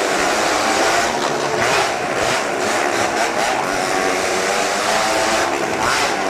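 Motorcycle engines running hard on a Wall of Death, loud and continuous, the engine note wavering up and down.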